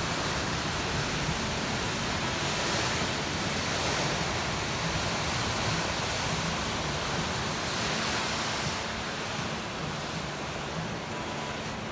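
Lake surf washing in under strong wind: a steady rushing noise that swells a little about three seconds in and again near eight seconds.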